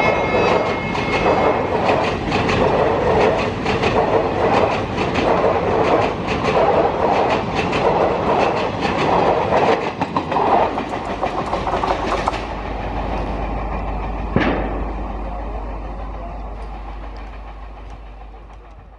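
Express passenger coaches passing at high speed, their wheels clattering rhythmically over the rail joints. About twelve seconds in, the clatter gives way to a fainter steady rumble that fades away, with one sharp click a couple of seconds later.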